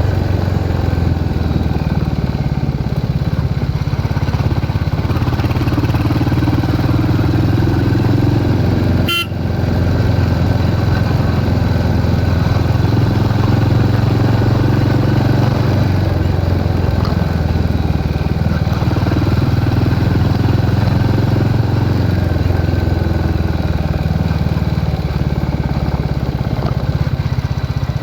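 Royal Enfield Hunter 350's single-cylinder engine running steadily, its pitch rising and falling a little, with one brief sharp click about nine seconds in.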